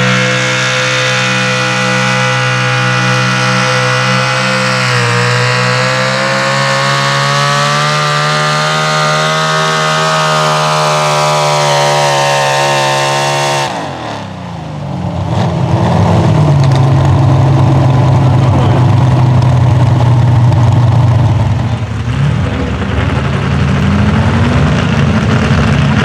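Pro Stock four-wheel-drive pulling truck's engine held at high revs under full load down the track. About 14 seconds in, the revs fall away sharply as the throttle comes off, then loud, rougher engine noise carries on.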